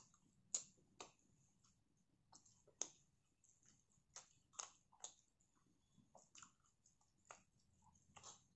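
Faint chewing of a wheat-flour pancake: soft, irregular mouth clicks and smacks, about a dozen over several seconds.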